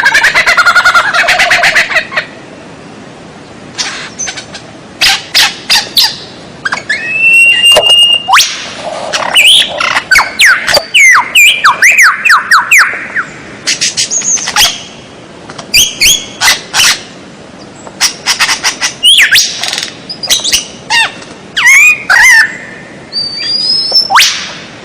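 Songbird calls: bursts of fast clicking trills, short whistled notes and quick sliding chirps, with brief pauses between phrases.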